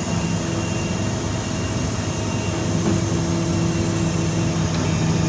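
Rollback tow truck's engine running with its bed hydraulics or winch working, a steady mechanical hum that shifts to a slightly different pitch about three seconds in as the load changes.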